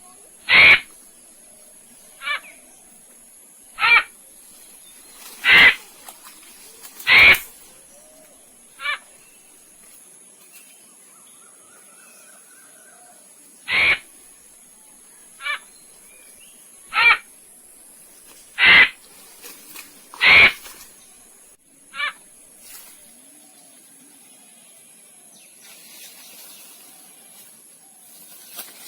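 An animal giving short, harsh calls, twelve of them, about one every second and a half, with a pause of a few seconds partway through.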